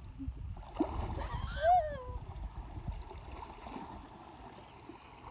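River water splashing and flowing around someone wading in a flooded river, with a short high-pitched voice cry about a second and a half in.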